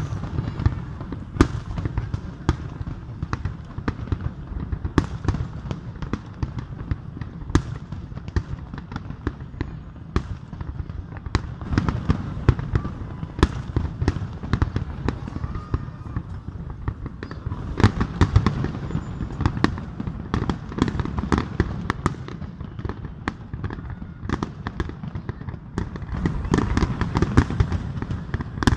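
Aerial fireworks display: shell after shell bursting in sharp bangs over a continuous low rumble, with the bangs coming thickest in the last few seconds.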